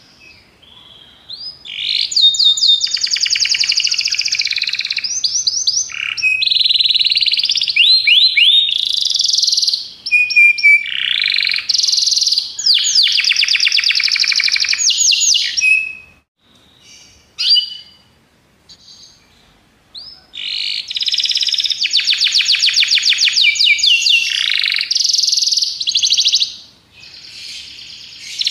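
Domestic canary singing: long phrases of rapid trills and repeated whistled notes, broken by a pause of a few seconds past the middle and a shorter one near the end.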